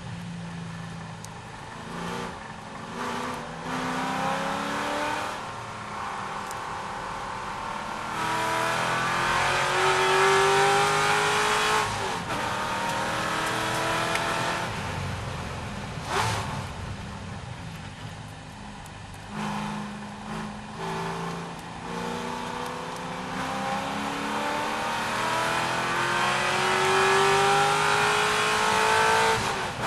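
C6 Corvette's V8 engine at racing speed, pitch rising hard through the gears with sharp upshifts about 12 and 16 seconds in. It drops away around 19 to 21 seconds as the car slows and shifts down, then pulls up again through the gears toward the end.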